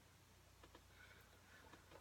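Near silence: faint room tone with a low steady hum and a few faint soft clicks.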